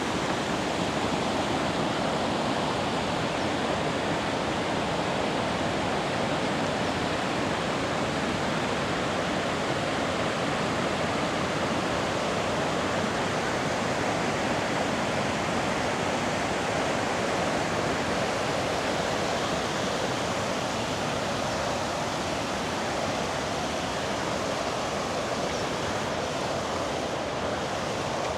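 River water rushing steadily over rocks, an even hiss.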